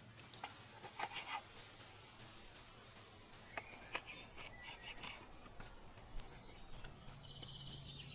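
Quiet outdoor ambience with a few short high bird chirps, and scattered light clicks and taps about a second in and near four seconds.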